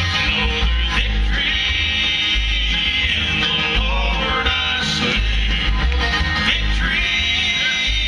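A bluegrass band playing live: acoustic string instruments over a steady, prominent bass line.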